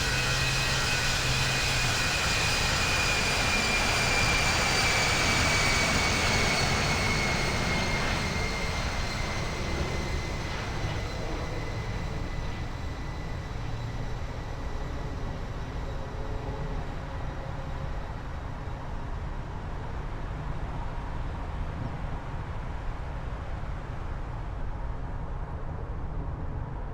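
Jet airliner's engines with a high whine that slowly falls in pitch as the noise gradually fades, the sound of a jet passing and moving away.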